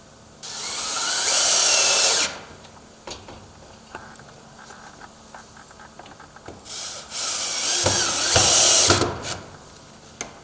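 Power drill running in two bursts of about two seconds each, the first starting about half a second in and rising in pitch as it spins up, the second starting near seven seconds, with light clicks and taps between. It is driving screws to fasten a door frame.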